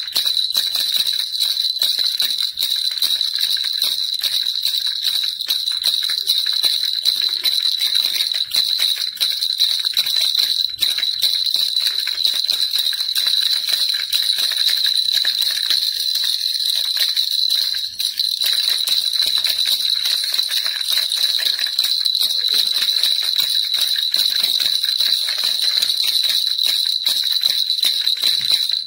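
Baby rattle shaken continuously: a dense, fast rattling and jingling with a steady high ring over it.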